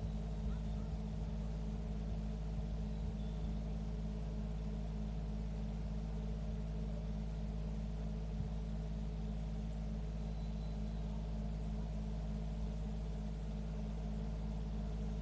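Steady low rumble from a nature-sound ambience, with a few faint, short high chirps.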